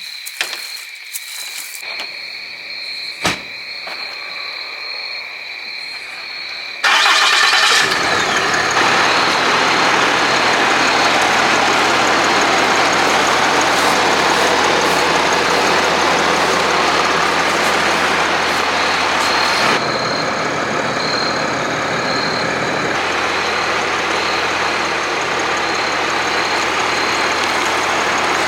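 Ram 2500's 6.7-litre Cummins inline-six turbo-diesel starting up suddenly about seven seconds in, after a single click, then idling steadily. The idle eases down slightly later on.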